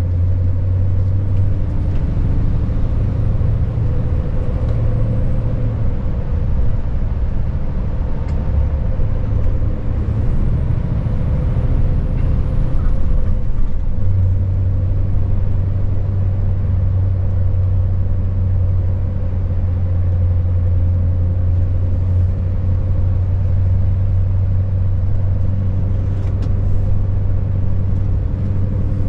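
Scania S580 truck's V8 diesel engine running while driving, a steady low drone over tyre and road noise. The engine note wavers for a few seconds about a third of the way in, then settles back to a steady drone.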